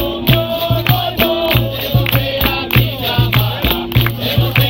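Capoeira roda music: a berimbau's twanging notes with its caxixi shaker rattling, a pandeiro and drum keeping a steady beat, and voices singing over it.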